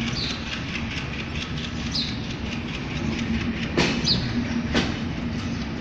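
Bangladesh Railway Intercity train at the platform: a steady low hum, with two sharp clanks about a second apart midway and a few short, high, falling chirps.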